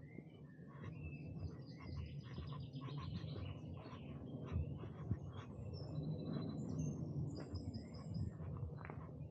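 Several songbirds singing and chirping at once, a busy mix of short calls, trills and high whistled notes. Underneath is a low, uneven rumble, with two brief thumps about halfway.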